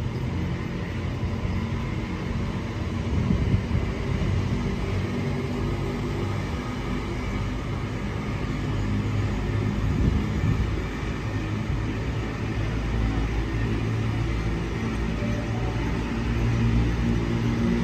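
Train moving through a station: a steady low rumble with a couple of sharp knocks, about three and a half and ten seconds in, and the rumble grows deeper and louder in the last few seconds.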